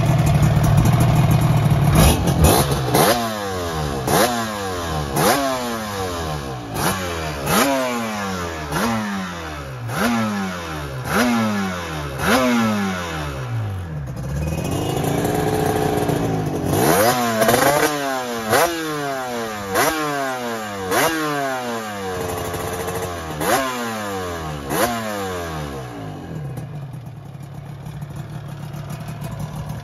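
Yamaha TZR 250 2MA two-stroke parallel-twin with Martin Johnson expansion chambers and F3-ported cylinders, revved again and again, roughly once a second, each rev rising sharply and falling back, with one slower, longer rev in the middle and steadier running near the start and end.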